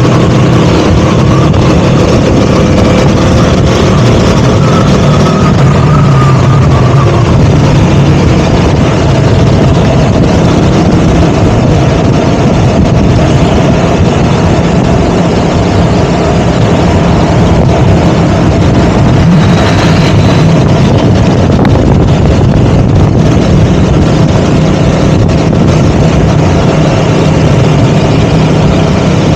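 KTM Duke 200's single-cylinder four-stroke engine running under way, heard from on board, its pitch shifting slightly with the throttle in the first few seconds and then holding fairly steady.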